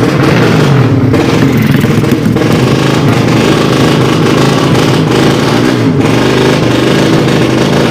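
Drag-race motorcycle engines revving hard, loud and continuous, the pitch wavering up and down.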